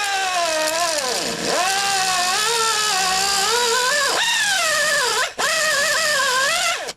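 A 2-inch die grinder with a cutting wheel grinding the staked metal off a door hinge pin. Its whine sags in pitch as it bites into the steel and climbs back as the load eases. It cuts out briefly about five seconds in, runs again, then stops.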